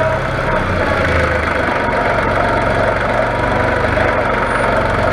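Ford 1900 compact tractor's diesel engine running steadily, with a steady whine above the engine note.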